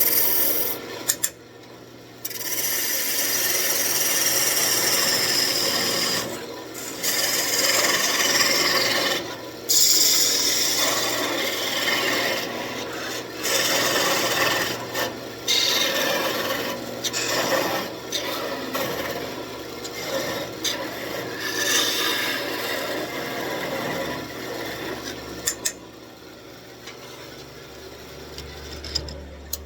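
Lathe turning tool cutting a spinning walnut blank, a rough scraping hiss that comes in passes with short breaks where the tool lifts off the wood. Over the last few seconds the cutting stops and the lathe keeps running with a quieter hum.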